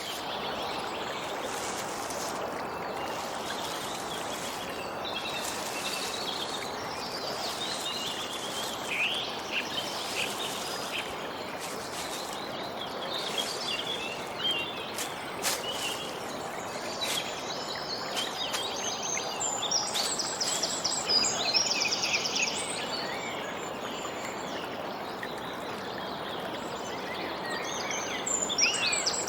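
Small birds chirping and twittering over a steady, even rushing background noise. The chirping grows busier about two-thirds of the way in and again near the end.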